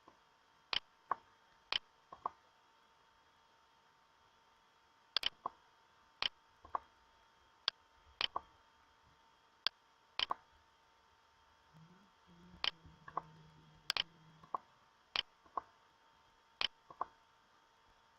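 Computer mouse clicking: about twenty sharp single clicks at irregular intervals, some in quick pairs, over a faint steady hiss and hum. A faint low drone comes in for a couple of seconds past the middle.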